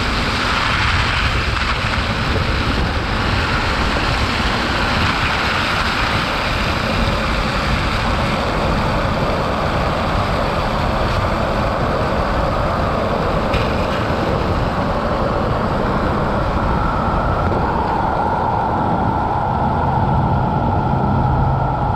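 Steady road noise of an electric Tesla Cybertruck driving on the highway: tyre and wind noise, with a low hum growing in near the end.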